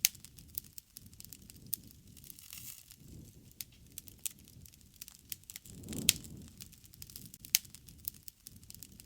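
Wood campfire crackling: scattered sharp pops of burning wood, the loudest right at the start and about six seconds in, over a soft low rumble of the flames that swells and fades.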